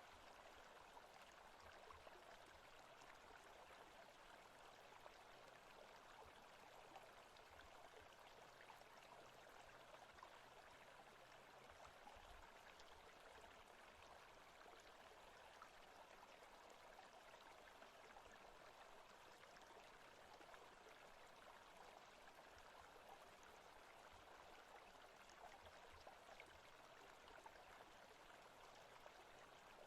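Faint, steady forest ambience: an even wash of water-like noise with no distinct calls or events.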